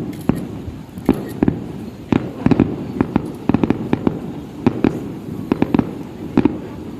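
Fireworks display heard from a distance: a rapid, irregular string of shell bursts, many coming in quick clusters of two or three bangs.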